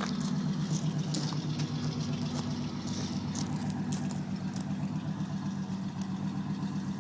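1988 Chevrolet pickup's 350 small-block V8, with throttle-body injection, idling steadily.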